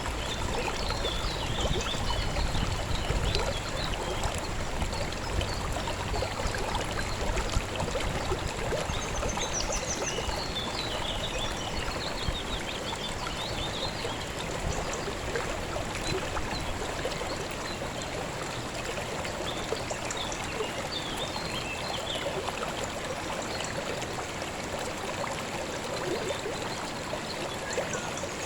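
Shallow river flowing steadily over stones, with bird chirps now and then.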